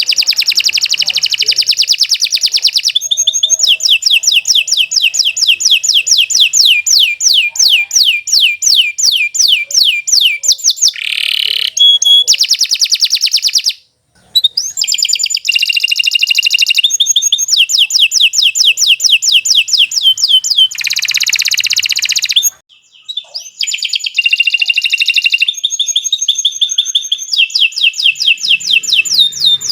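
Domestic canary singing a long, loud, continuous song: rapid rolling trills of quick, repeated falling notes, several a second, phrase after phrase, with two brief breaks.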